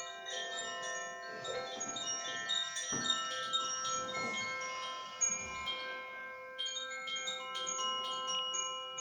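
Koshi chimes ringing: the clapper strikes the tuned metal rods inside the bamboo resonating tube in quick, irregular clusters, and many bright, overlapping tones ring on.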